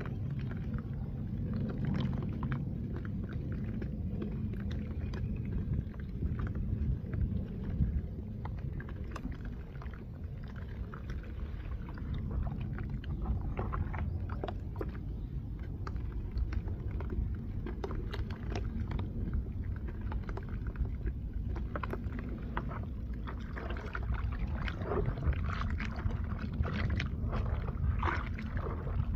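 Dry red dirt clay being crushed and crumbled close to the microphone: a steady run of small crunches and crackles over a constant low rumble.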